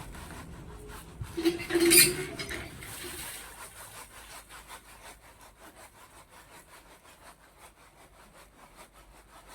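Laundry being scrubbed by hand: a rhythmic scrubbing stroke about three or four times a second, growing fainter. A brief louder sound with a short held note cuts in about two seconds in.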